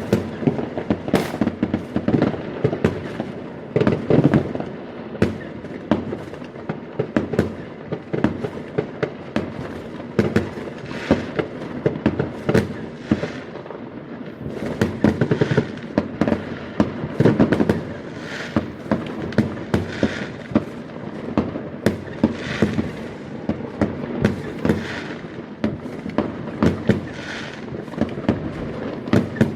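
Fireworks going off: a continuous, rapid run of sharp bangs and crackles, several a second, without let-up.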